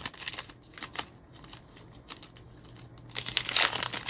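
Crinkling of trading-card pack wrappers and cards being handled. It is quieter through the middle, with only scattered clicks, and louder and denser in the last second.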